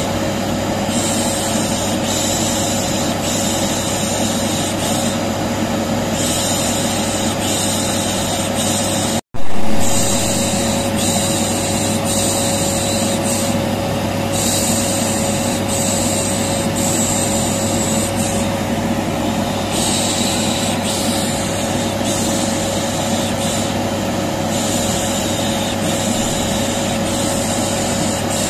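Vacuum cleaner running continuously, a steady drone with a constant hum, overlaid with rhythmic 'pış pış' shushing that comes and goes every second or two, as white noise to soothe a colicky baby. The sound cuts out for an instant about nine seconds in and comes back briefly louder.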